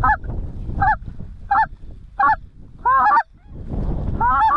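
Geese honking: a series of short, arched honks about one every 0.7 seconds, with a low rumble swelling up just before the last one.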